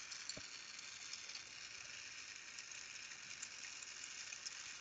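Carlisle glassworking torch flame hissing steadily, with a faint tick about half a second in.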